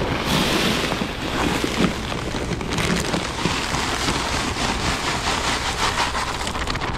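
Push salt spreader broadcasting rock salt, a steady hiss of grains scattering onto pavement, with wind buffeting the microphone.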